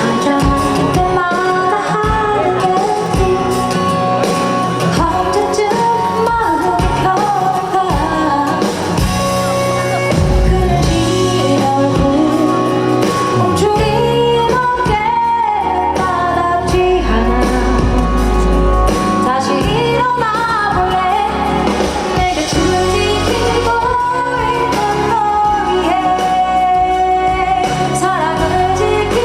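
A female vocalist singing a pop ballad live over instrumental accompaniment, amplified through a PA.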